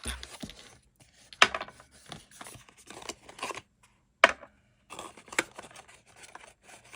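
Paper and cardboard packaging being opened and handled: short bursts of rustling and crinkling with brief silent gaps, and two sharp clicks about a second and a half and four seconds in.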